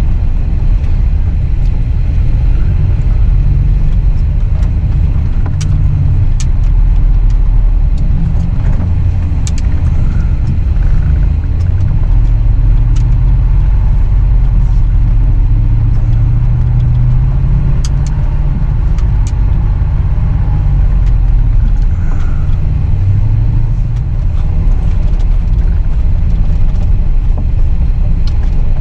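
Full-size pickup truck's engine working under load through deep snow, its pitch rising and falling as the throttle is worked, with a few sharp clicks and knocks.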